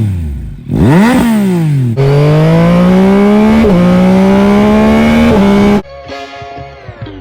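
Yamaha Tracer 9 GT+ three-cylinder engine through a baffle-less Akrapovic full race exhaust: two quick flybys whose pitch rises then falls as the bike passes, then hard acceleration climbing in pitch with two upshifts. It cuts off suddenly near the end, leaving background music.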